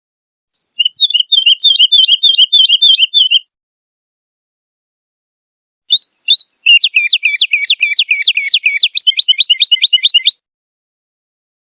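Woodlark singing two phrases: first a run of short repeated notes lasting about three seconds, then, after a pause of dead silence, a longer, faster trill of falling notes lasting about four and a half seconds.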